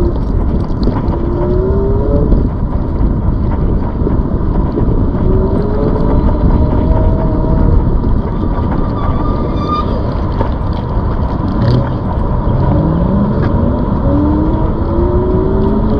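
Ride on a ZOOZ electric bike: heavy wind rumble on the microphone, with a hum that rises in pitch several times.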